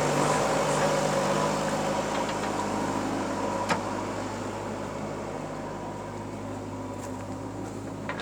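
Heavy diesel engine running steadily, slowly growing quieter, with one sharp click a little over a third of the way in.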